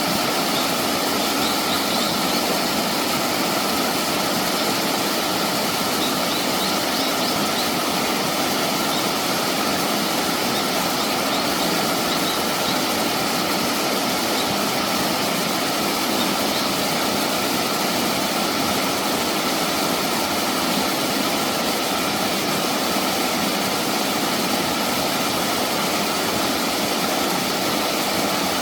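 Steady rush of a mountain stream flowing over rocks, with a few faint high chirps in the first several seconds.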